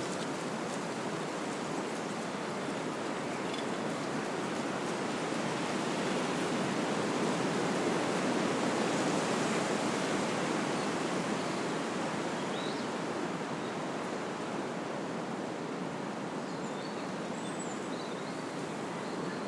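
Wind blowing through trees, a steady rushing of leaves and branches that swells a little in the middle and then eases.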